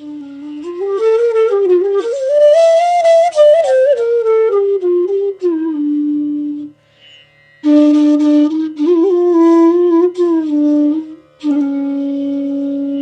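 Bansuri, the North Indian bamboo flute, playing a slow melodic phrase: a held low note climbs in a wavering line to a higher peak and sinks back to the low note. After a short pause near the middle, another phrase ends on a long held low note.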